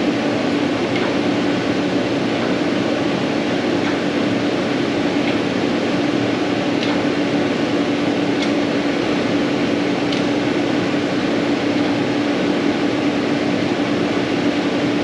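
Steady mechanical hum with a constant tone, like a running fan or blower, with a few faint light ticks.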